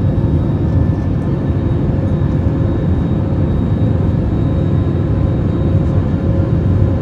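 Airliner cabin noise: the aircraft's engines and airflow heard from inside the cabin, a loud, steady rushing noise with a faint steady hum.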